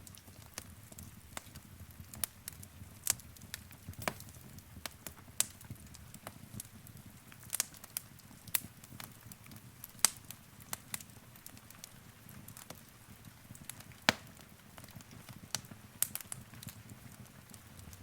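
Wood fire in a fireplace crackling, with irregular sharp pops and snaps over a low steady rumble of the flames; the loudest pops come about 10 and 14 seconds in.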